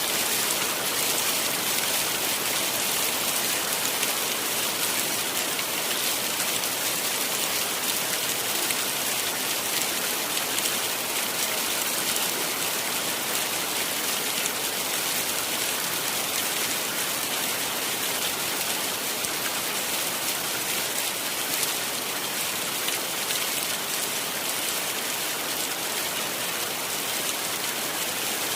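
Heavy rain falling steadily, a dense even hiss with fine pattering of drops.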